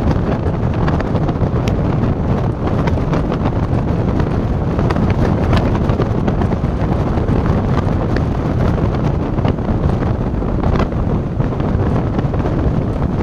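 Loud, steady wind buffeting the microphone over a low rumble, with a few faint clicks scattered through.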